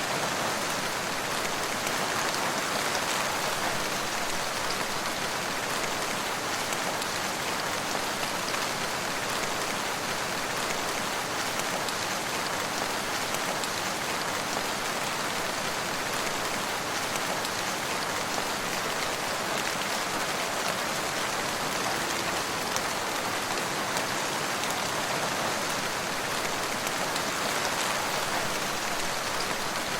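Steady rain falling, a constant hiss of many drops striking a surface.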